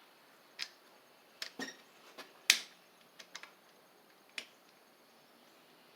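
About eight light metal clicks and knocks, spaced irregularly, from a starter bracket being worked off one lawn tractor starter motor and slid onto the replacement. The sharpest knock comes about two and a half seconds in, and the clicks stop after about four and a half seconds.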